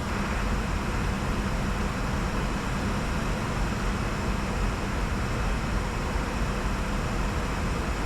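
Steady cockpit noise of a Bombardier Challenger 605 business jet descending at about 250 knots: air rushing over the airframe with a low hum underneath.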